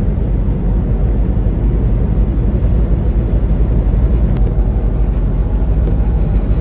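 Steady rumble of a semi-truck's diesel engine and road noise heard inside the cab, with one faint click about four seconds in.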